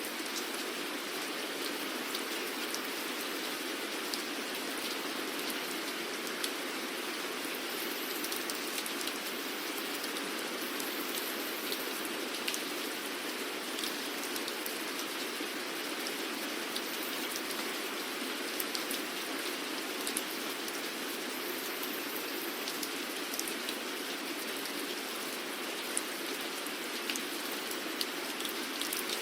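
Steady rainfall, an even hiss of rain with many sharp individual drops pattering on a surface.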